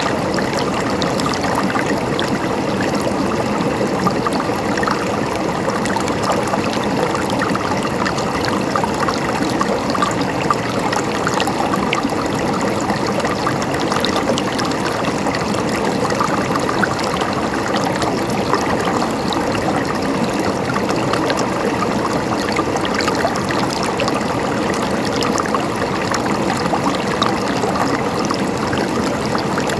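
Flowing water gurgling steadily, an even, unbroken burble.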